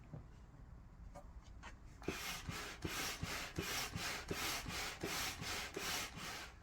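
Manual air pump worked in quick, even strokes, about two to three a second, each a rush of air, starting about two seconds in: the flood barrier's upper chamber is being part-inflated.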